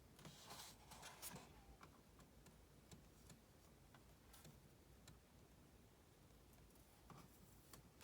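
Near silence: a quiet room with a few faint, irregularly spaced clicks and a brief soft rustle about half a second in.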